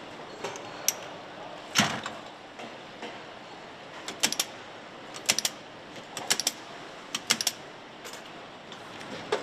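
Factory machinery at work over a steady background hum: a sharp knock about two seconds in, then quick double and triple metallic clicks about once a second.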